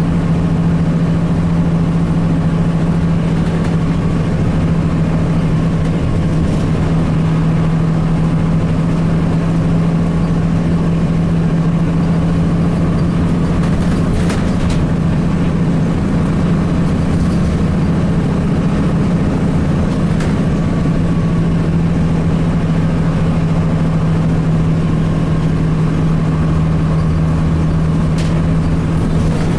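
Cummins ISC diesel engine of a 2002 Blue Bird CS transit bus running steadily with an even, deep hum, with a few brief clicks or rattles.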